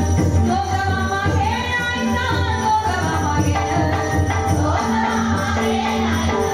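Women singing a Marathi dabalbari bhajan, a devotional song, with a group of voices over driving percussion and jingling metal cymbals.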